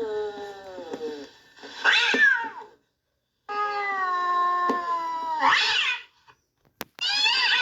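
Cat sound effect: a cat caterwauling and meowing. There are two long drawn-out wails, each ending in a sharp rising-and-falling yowl, with a third yowl near the end.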